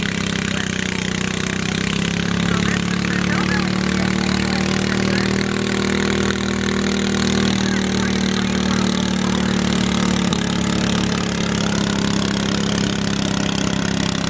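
Small garden tractor engine running steadily at a nearly constant speed, its pitch shifting only slightly.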